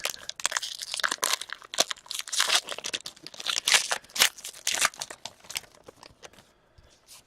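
Trading card pack wrapper being torn open and crinkled: dense, irregular crinkling and tearing that thins out and quiets near the end.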